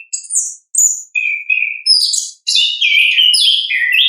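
Chestnut-capped thrush (anis kembang) singing in full song: a rapid run of short, varied whistled phrases, high and clear, with brief pauses between them.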